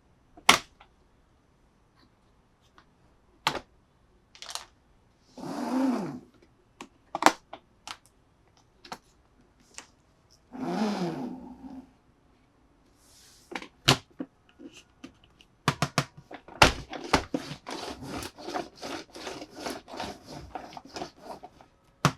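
Hands handling plastic toy parts and packaging: scattered clicks and taps, two longer scraping sounds with a pitch about five and ten seconds in, then a dense run of quick clicks near the end.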